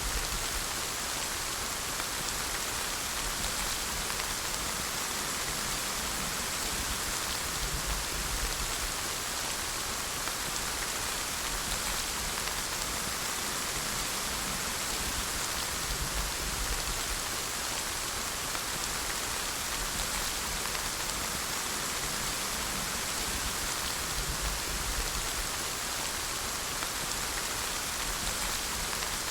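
Rain falling steadily, an even hiss of drops without a break.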